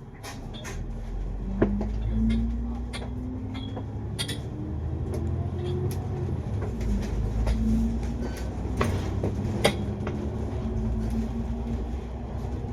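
Cabin sound of a double-decker bus under way. A low engine rumble swells and a drivetrain whine rises in pitch as the bus pulls away, about a second and a half in, while the cabin rattles and clicks throughout.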